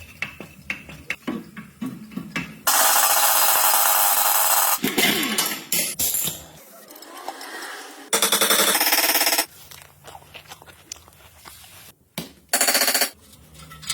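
Impact wrench hammering in three bursts: a run of about two seconds, a shorter one about eight seconds in, and a brief one near the end. Small clicks and clanks of tools come between the bursts.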